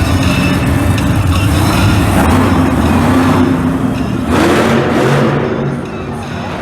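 Monster truck engine running loud in the arena, revving up about four seconds in, then easing off near the end.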